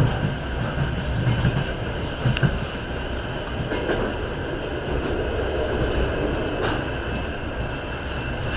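Passenger train running, heard from inside the carriage: a steady rolling rumble of wheels on the rails, with a couple of sharp clicks.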